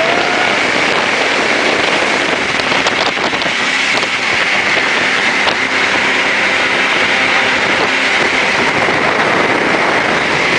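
Jet boat running at speed: a loud, steady rush of engine, wind and water spray.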